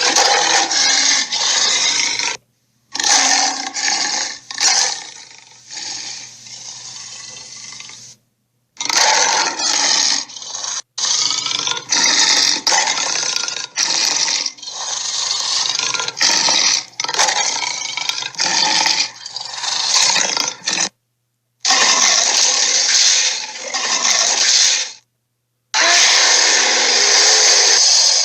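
Sharptooth's roars and growls, the tyrannosaur sound effects from the animated film, played as a string of separate loud clips. Each clip cuts off abruptly, with short silent gaps between them, four times.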